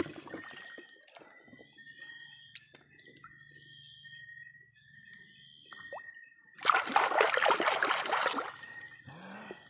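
Hand splashing into shallow creek water in a quick grab for a freshwater prawn, a loud burst of splashing about seven seconds in that lasts under two seconds. Before it, only faint steady high chirring and trickling.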